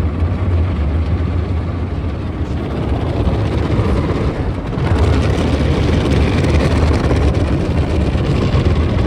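Tunnel car wash machinery working over a car, heard from inside the cabin: a steady low hum under a loud rushing wash noise that grows louder about five seconds in.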